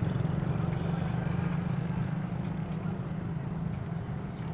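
Low rumble of a train, fading slowly.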